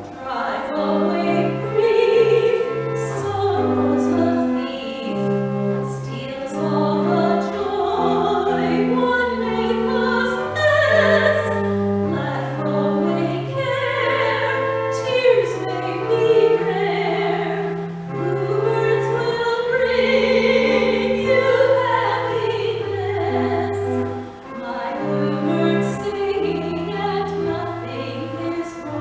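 A solo female voice singing a song in full, operatic style with vibrato, accompanied by an organ playing sustained chords and a moving bass line. The voice enters at the start, over the organ.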